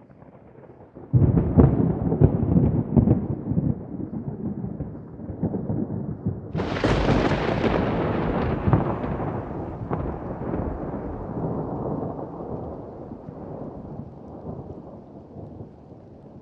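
Thunder: a sudden low rumble with crackling strokes about a second in, then a sharper, brighter crack about six and a half seconds in that rolls on and slowly fades.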